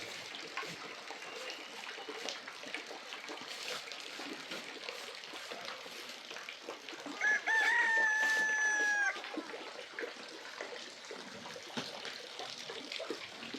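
A rooster crowing once, about seven seconds in: a few short broken notes, then one long held note that cuts off after about two seconds. Faint outdoor hiss with scattered small clicks sits underneath.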